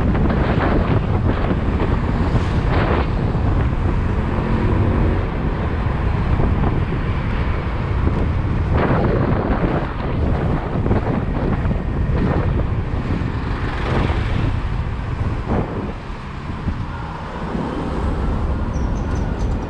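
Wind buffeting the microphone of a moving motorcycle, over a steady rumble of road and traffic noise. The wind eases briefly about sixteen seconds in.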